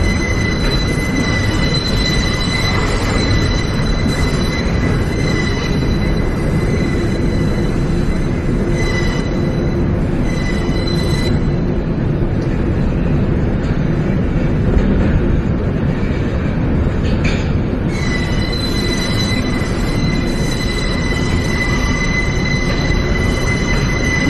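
New York City subway train running between stations, heard from inside the car: a steady loud rumble with a high wheel squeal. The squeal drops out about eleven seconds in and comes back about seven seconds later.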